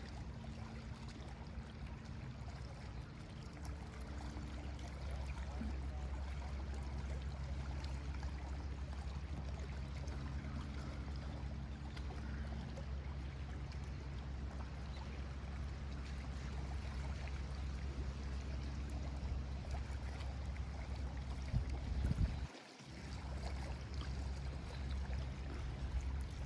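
Small lake waves washing and lapping against the shore in a steady wash with a deep low rumble. It dips suddenly for a moment shortly before the end.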